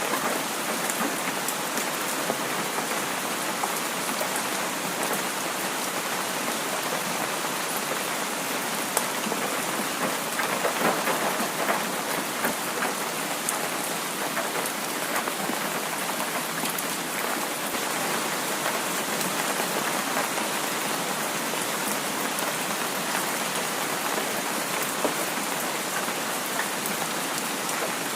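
Heavy rain falling steadily, a dense even hiss flecked with many small drop ticks.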